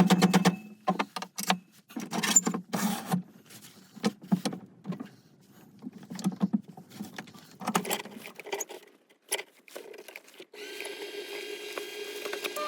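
Irregular metallic clicks and knocks of a wood blank being fitted and clamped in a wood lathe's chuck jaws. Near the end the lathe motor starts, with a steady hum and a whine.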